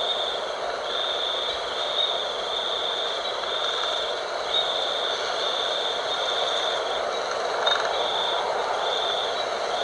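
Night wind blowing steadily, with a high-pitched trill that pulses on and off about once a second throughout.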